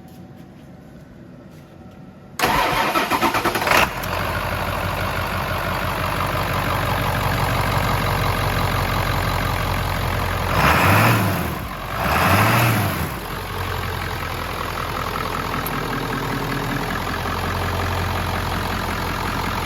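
1997 Ford F-350's 7.3-litre Power Stroke turbo-diesel V8 cold-starting: it cranks about two and a half seconds in, catches within a second and a half and settles into a steady idle. It is revved briefly twice near the middle, then idles on.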